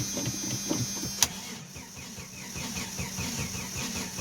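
Starter cranking the cold carbureted engine of a 1989 Jeep Wrangler YJ in rhythmic pulses without it catching, with a sharp click a little over a second in.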